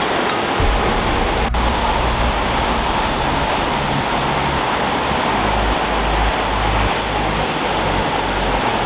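Waterfall roaring: a loud, steady rush of fast, rain-swollen water, with wind rumbling on the microphone in low, uneven gusts.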